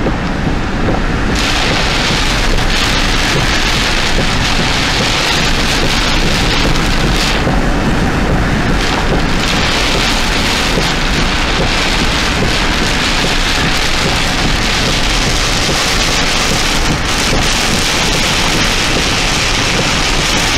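Heavy rain pelting a moving car's roof and windshield, heard from inside the cabin as a steady loud rush. It turns brighter about a second in, as the car comes out from under an overpass.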